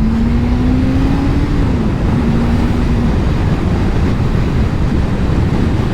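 Suzuki GSX600F's four-cylinder engine accelerating hard, its note climbing steadily, then dropping about two seconds in at an upshift and pulling again, under heavy wind rush.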